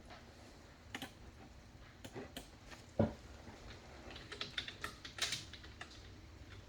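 Trading cards and their foil packs being handled on a table: scattered soft clicks and crinkles, one louder knock about 3 seconds in, and a denser patch of crackling near the middle.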